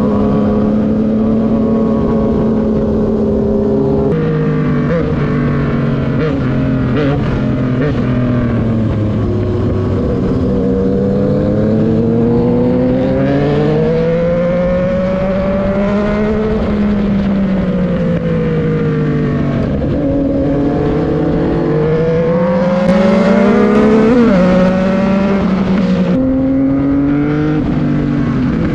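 Inline four- or three-cylinder motorcycle engine running under load, its note climbing and falling again and again as the rider accelerates and eases off. The loudest, highest climb comes about 23 seconds in and ends in a sudden drop in pitch.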